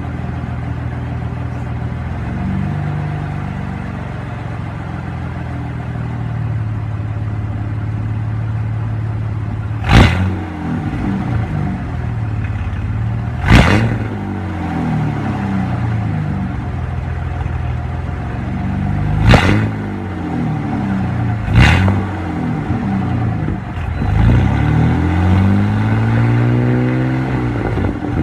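Straight-piped Ford F-150 with a fuel-injected 4.9 L straight-six and no muffler, driven through the revs. Four sharp cracks are spread through the stretch, each followed by the exhaust note dropping. Near the end the note climbs steadily as the engine pulls.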